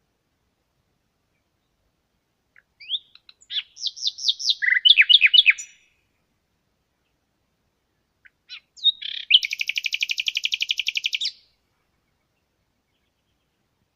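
Songbird singing: a phrase of quick chirping notes about three seconds in, then after a pause a fast, even trill lasting about two seconds.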